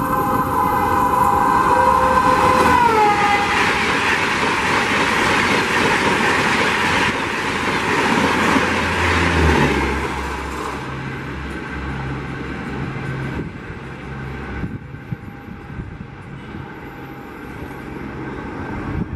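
Horn of a WAP-5 electric locomotive hauling a passenger express at about 160 km/h, dropping in pitch about three seconds in as the locomotive passes, followed by the loud rush of the coaches going by, which fades after about ten seconds as the train recedes.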